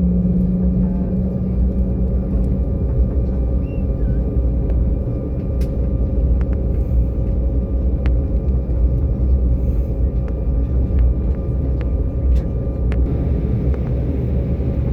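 Airliner cabin noise from the running engines: a loud, steady low rumble, with a low hum that fades out a couple of seconds in and scattered light clicks and rattles.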